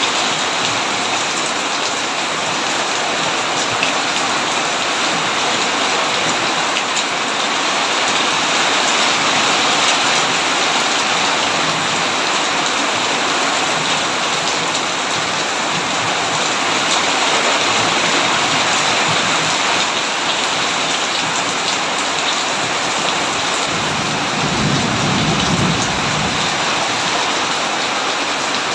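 Heavy rain pouring steadily on a tin roof, with a short low rumble of thunder near the end.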